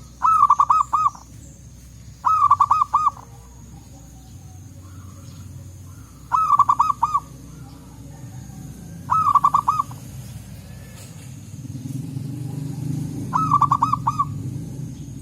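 Zebra dove (perkutut) cooing: five short phrases, each a quick run of about four or five coos, spaced a few seconds apart. A steady low rumble runs underneath and grows louder near the end.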